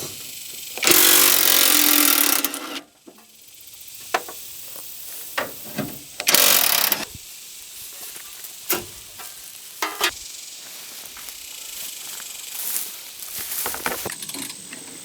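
Tools working loose bolts on an old Chevy truck's radiator core support: two harsh noisy tool bursts, the first about two seconds long and the second about a second long, with scattered metal clicks and clinks between them.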